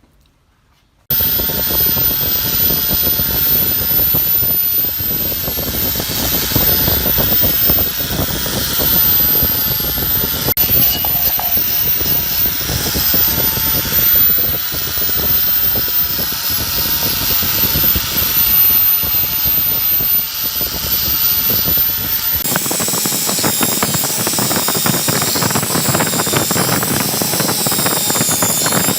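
A power tool running steadily. It starts abruptly about a second in, and its sound changes near the end, losing its low part and turning brighter.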